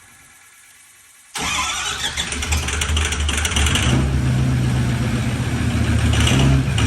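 Ford 6.0 Powerstroke V8 turbodiesel coming in suddenly and loud about a second in, then running with a steady deep note that grows louder a few seconds later.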